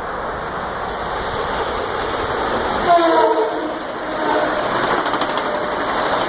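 Metro-North M8 electric train passing, with one short horn blast about three seconds in over the steady rumble of the train, which grows louder toward the end.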